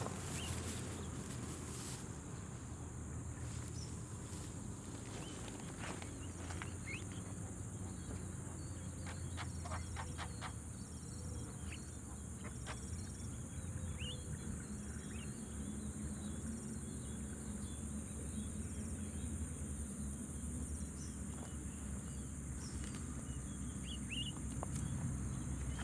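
A steady high-pitched insect drone, with a scattered few short bird chirps and a quick run of faint clicks about ten seconds in, over a low steady rumble.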